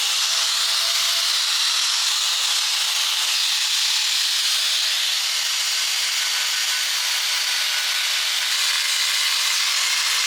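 A steady, even hiss, strongest in the high range, running without pauses.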